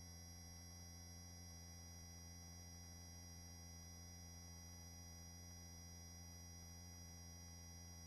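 Near silence: a faint, steady hum with a few constant whining tones from the helicopter's headset intercom line, with no speech on it.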